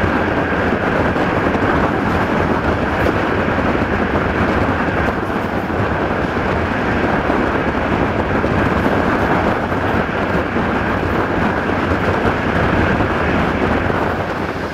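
Steady rush of wind and wheel-on-rail rumble from a passenger train running at speed, with the wind striking a microphone held out of the coach window. A thin steady whistle sits above the rush.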